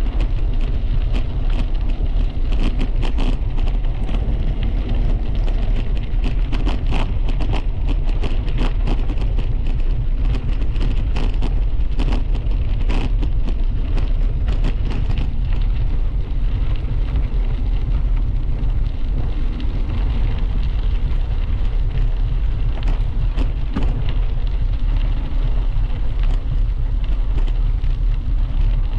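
Heavy wind rumble on the microphone of a camera mounted on a moving bicycle, with frequent small crackles and clicks from the ride, thickest in the first half.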